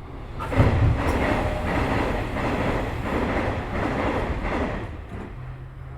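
Sounds inside a Nishitetsu 3000 series train car as the doors shut: a thud about half a second in, then a loud rushing noise that pulses about twice a second for some four seconds, and a steady low hum that starts near the end.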